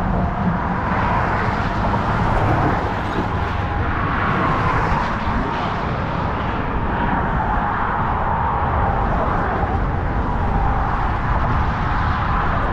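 Steady, loud outdoor rumble and hiss, heaviest in the low end, with no distinct events.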